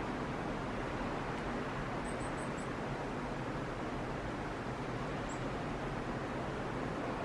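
Steady rushing wind outdoors, with faint high chirps of small birds over it: a quick run of four short notes about two seconds in and a single chirp a little after five seconds.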